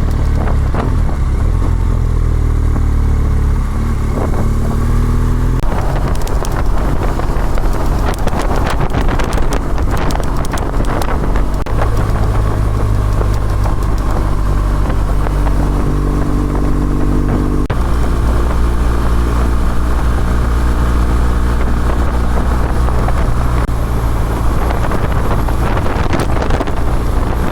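BMW R1200GS boxer-twin engine running while under way, its note stepping to a new pitch several times as the ride goes on.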